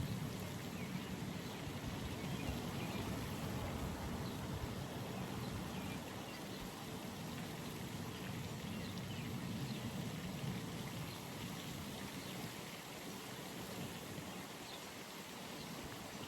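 Steady outdoor ambience at a pond: a low rumbling hiss that eases off in the last few seconds, with faint short high chirps scattered through.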